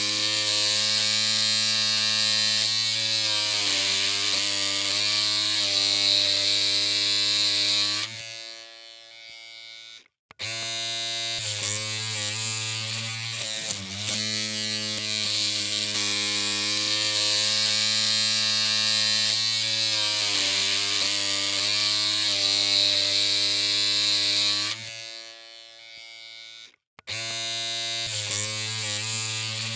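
Electric hair clippers buzzing steadily, a low hum with a bright hiss over it. The buzz drops away twice, goes almost silent for a moment, then starts again.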